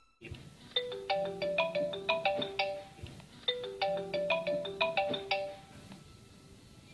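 Mobile phone ringtone: a short melody of bright, quickly fading notes, played through twice before it stops.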